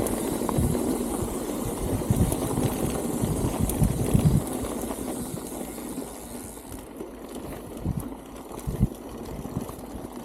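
Strong wind buffeting the microphone of a cyclist riding along, a rumbling rush with irregular gusty thumps, easing a little about six seconds in.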